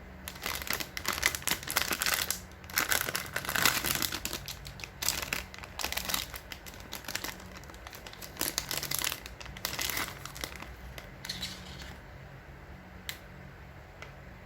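Plastic snack wrapper crinkling and being torn open, in rapid bursts for about twelve seconds, followed by two small clicks near the end.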